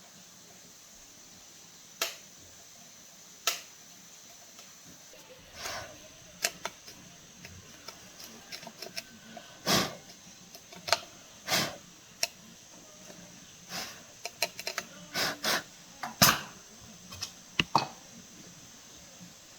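Irregular clicks, taps and knocks of small parts and tools being handled during a repair, some a few seconds apart and several in a quick cluster near the end.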